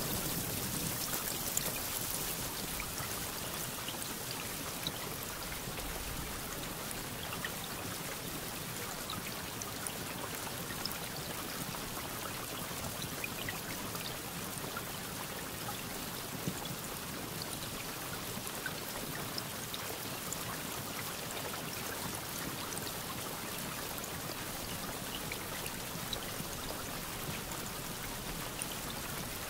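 Steady rainfall, a dense even hiss with scattered drop ticks, after the tail of a thunder rumble fades out in the first couple of seconds.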